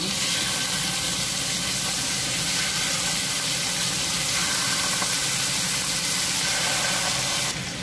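Marinated chicken wings sizzling in hot oil in a frying pan over low heat, a steady hiss that drops abruptly near the end.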